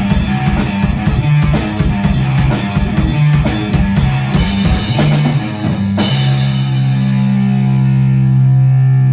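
Rock song played on drum kit and guitar, with a steady beat of drum hits. About six seconds in, a final accented hit lands and a chord is left ringing.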